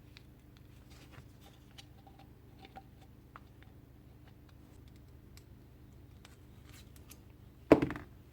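Faint clicks and light scrapes of small parts being handled on a workbench, then one sharp knock a little before the end, like a metal part or tool set down hard.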